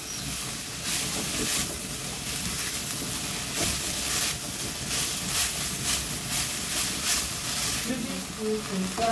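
Cabbage stir fry sizzling in an enamelled pot while a spatula is pushed through it in repeated strokes, each stroke a short scrape. A voice starts faintly near the end.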